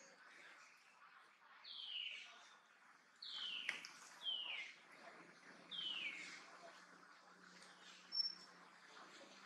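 A bird calling: four clear calls, each sliding down in pitch, spaced a second or two apart. A sharp click comes about halfway through, and a short high peep near the end.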